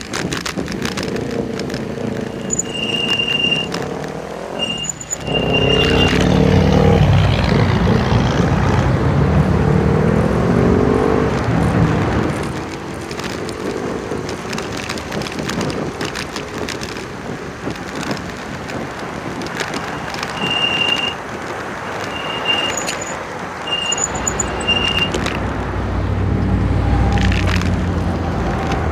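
Road traffic heard from a moving bicycle: motor vehicles pass with engine pitch rising and falling, over a constant rush of wind and road noise. Two groups of short, high electronic beeps sound a few seconds in and again past the middle.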